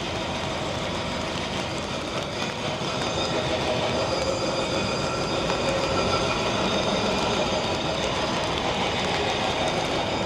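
A steady mechanical rumble with faint humming tones through it, growing slightly louder a few seconds in.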